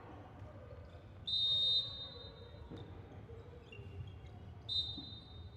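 Volleyball referee's whistle: a sharp, high blast of about half a second a little over a second in, then a second, shorter blast near the end, over the steady murmur of the arena.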